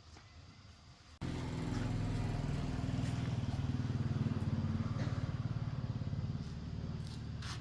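Piston air compressor switched on about a second in and running steadily, with a fast, even pulsing beat.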